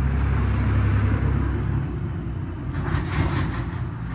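A motor vehicle engine running with a low steady rumble that fades about a second and a half in, with a brief clatter around three seconds.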